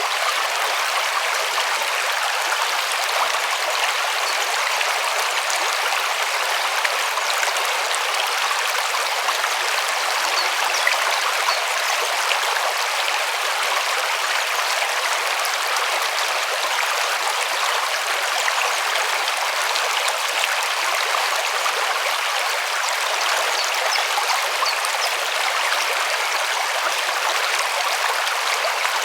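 River water flowing steadily over stones: an even, unbroken rushing with fine splashing and babbling.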